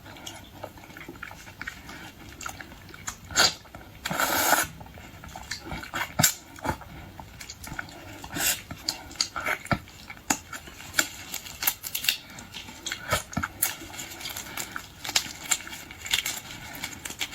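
Close-up eating of boiled shrimp and lobster: irregular wet chewing and smacking with many sharp clicks and cracks, and a short rustling burst about four seconds in.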